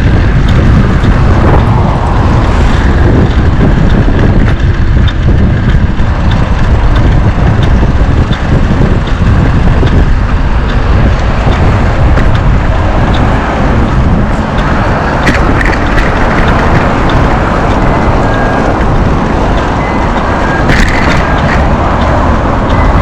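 Heavy wind buffeting the microphone of a camera carried on a moving bicycle: a loud, unsteady low rumble, with faint ticks and short high tones breaking through in the second half.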